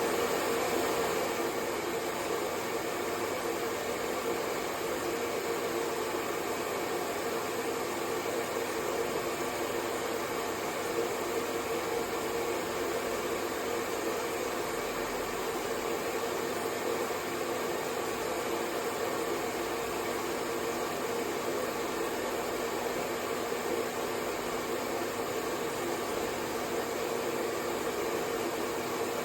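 Hair dryer running continuously at a constant setting: a steady rush of blown air with an even motor hum, unchanging throughout.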